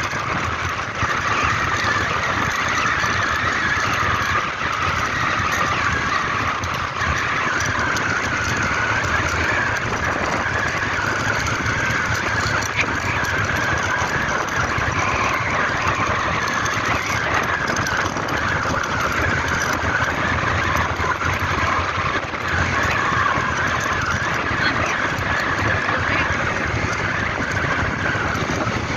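A vehicle travelling down a mountain road, its engine and road noise steady underneath a loud, continuous shrill drone that wavers slightly in pitch.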